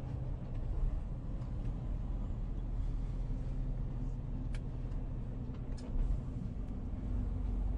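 A motor vehicle's engine running steadily in a low drone, with a few faint clicks.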